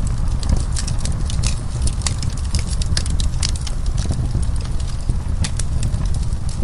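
Wood fire crackling: many irregular sharp pops and snaps over a steady low rumble of the flames.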